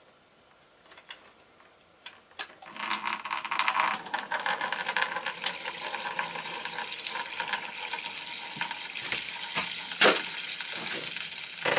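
Antifreeze coolant draining from a Kawasaki KLR 650 motorcycle's cooling system and splashing into a drain pan, starting about two and a half seconds in after a few faint clicks and then running steadily, freed by the loosened radiator cap. A single sharp knock sounds near the end.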